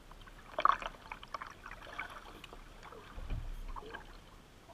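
Kayak paddle splashing in river water and knocking against the boat, with the loudest cluster of splashes and clicks about half a second in and a dull low bump a little past the middle.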